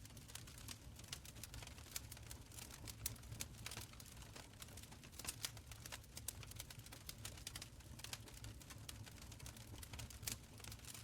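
Wood fire burning in an open stone fireplace: dense, irregular crackling and snapping over a soft low rumble of the flames.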